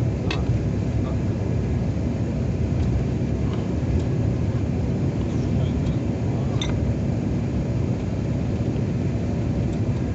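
Steady low rumble of a vehicle on the move, engine and road noise, with a few faint clicks.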